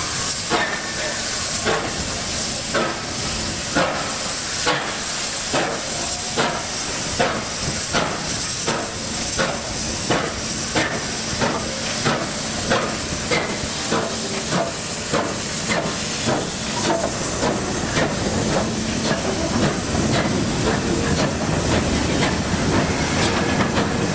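Steam locomotive 3801 working under steam: a steady rhythm of exhaust chuffs, a little under two a second and quickening slightly, over a constant heavy hiss of steam.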